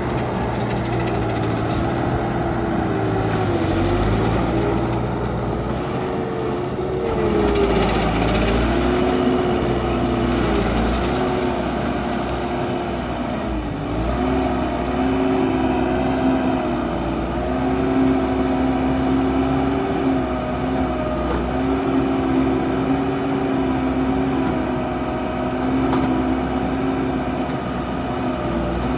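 ASV Posi-Track MD70 track loader's diesel engine running steadily, its pitch dipping briefly and recovering a few times.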